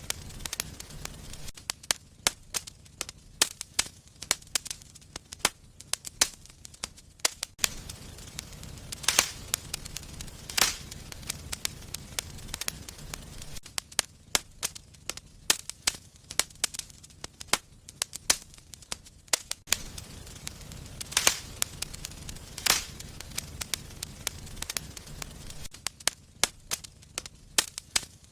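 Wood fire burning in a fireplace, crackling with irregular sharp pops and a few louder snaps, over a low rumble of the flames that rises and falls.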